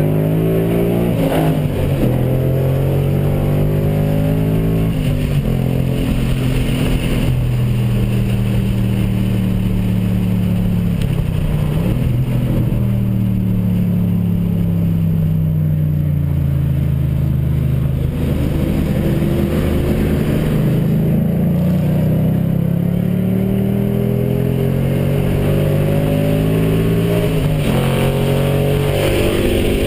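Mustang's engine heard from inside the cabin while driving, the revs climbing and dropping sharply several times, with a long slow fall in the middle and a climb after it.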